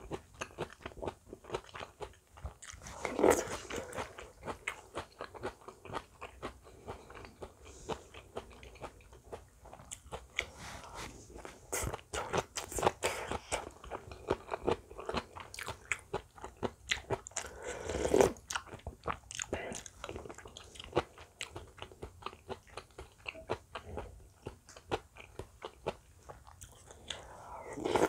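Close-up chewing and crunching of radish-kimchi fried rice, with many small irregular mouth clicks. A few louder swells come about three seconds in, near the middle and at the end.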